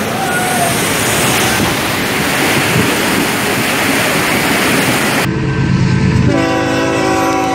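A passenger train rushing through floodwater along a station platform makes a loud, steady rushing of spray and wheels. About five seconds in this gives way abruptly to a train's air horn sounding a held chord of several notes.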